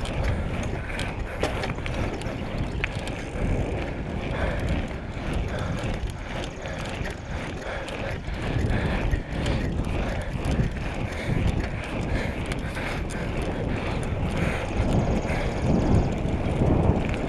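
Bicycle being ridden: wind rushing over the microphone, with the rumble of the tyres on the road and light ticks and rattles from the bike.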